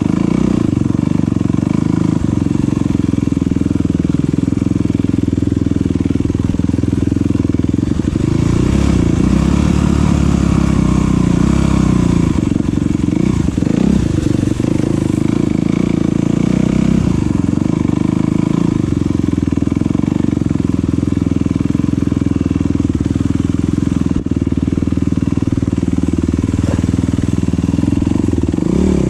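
Dirt bike engine running as the bike rides, a steady loud rumble heavy in the low end, with the pitch wavering up and down as the throttle changes.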